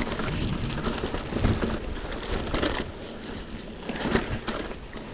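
Mountain bike going over a rough, stony dirt trail: tyres crunching on loose ground and the bike rattling, in uneven swells with scattered clicks.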